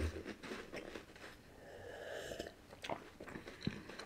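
Faint chewing of a crisp layered wafer, with a few small crunching clicks near the end.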